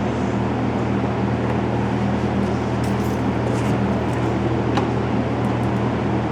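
Steady low machine hum, an engine or motor running at a constant speed, with a few faint light clicks and one sharper tick about five seconds in.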